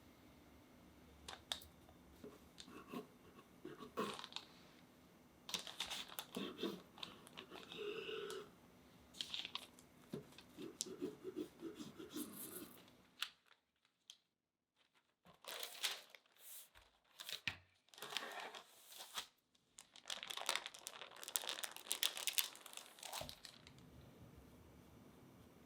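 Paper crinkling and tearing in irregular bursts, typical of baking paper being peeled off and handled, with a brief pause about halfway through.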